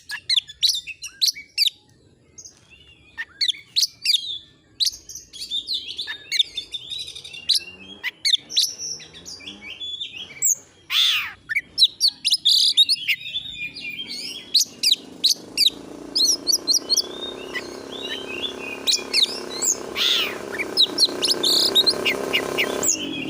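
Oriental magpie-robin (kacer) singing a fast, varied run of sharp chirps, whistles and trills, with brief pauses between phrases. A low steady hum rises beneath the song in the second half.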